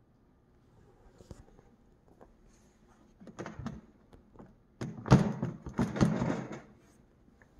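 Handling noises: scattered knocks and scraping, building to a louder cluster of thumps and rubbing about five seconds in.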